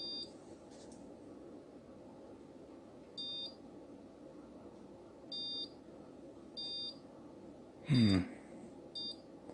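Electronic beeps from a torque wrench that signals how close the applied torque is to its setting: about six short, high two-tone beeps spaced irregularly. A brief vocal sound with falling pitch comes about eight seconds in.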